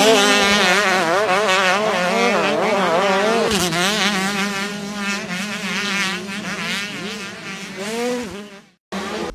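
125cc two-stroke motocross bike engine held at full throttle, its pitch rising and falling rapidly over and over as the rider works the throttle and gears. It fades somewhat toward the end and cuts off suddenly near the end.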